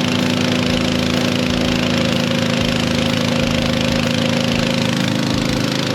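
Engine-driven pump running steadily at high throttle, having just been throttled up, pumping brine to fill the sprayer tank.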